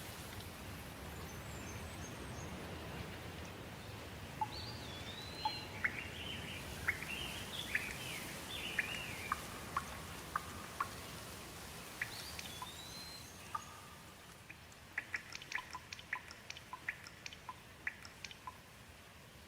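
Steady light rain with birds chirping over it through the first half, followed by a quick run of sharp ticks like water dripping in the last few seconds.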